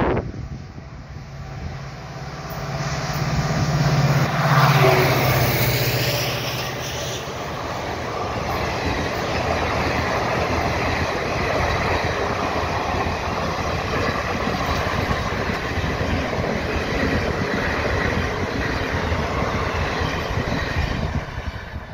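Hadapsar–Hyderabad Express passenger train passing at speed. The locomotive's low rumble builds and peaks about five seconds in, then a long, steady run of coaches rattles past on the rails and fades near the end as the last coach clears.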